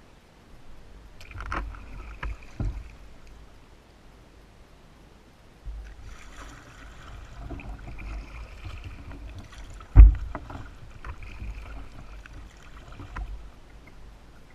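Kayak paddling: water splashing and dripping in two spells, with a single sharp knock about ten seconds in, the loudest moment.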